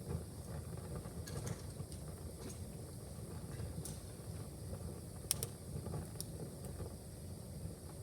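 Wood fire in a fireplace crackling: scattered sharp pops, the loudest a little past five seconds in, over a low steady rumble.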